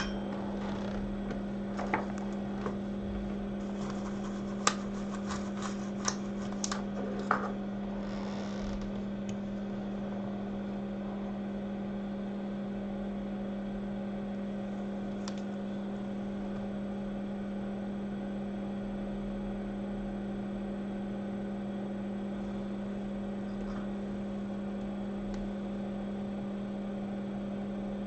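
A steady electrical hum, with a handful of light, sharp clicks and taps during the first eight seconds or so.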